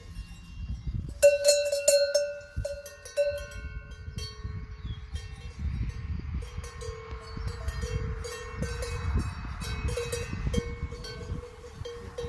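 Cowbells clanking irregularly, ringing out loudest about a second in and then on and off, over a low rumble and scattered clicks.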